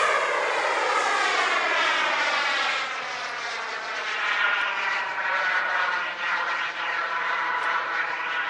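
Gas turbine engine of a radio-controlled F-15 model jet running in flight. It is a steady jet whine whose pitch falls over the first few seconds as the model passes and draws away, then holds fairly level.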